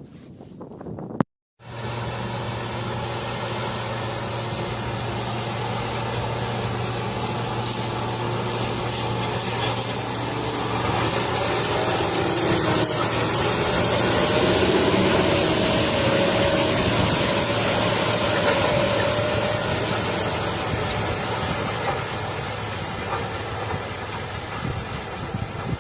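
Tractor engine running steadily with a strong hiss. It cuts in after a brief gap about a second in, grows louder through the middle and eases off near the end.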